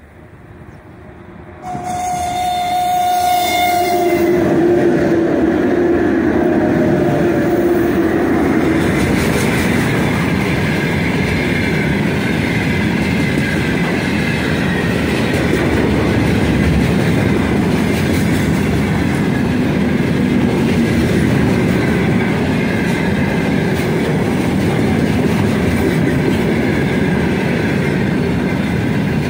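A heavy freight train headed by 2ES5K 'Ermak' electric locomotives passes close by. The locomotives' horn sounds for about six seconds as they come up, its pitch stepping down as they pass. A long string of gondola wagons then rolls by with a steady rumble and the clickety-clack of wheels over the rail joints.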